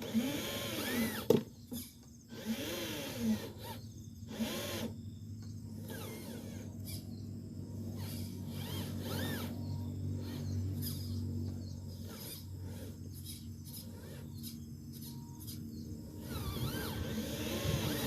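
Small electric motors of a 6x6 RC truck whining in repeated rising-and-falling sweeps over a steady low gear hum, with a sharp click a little over a second in.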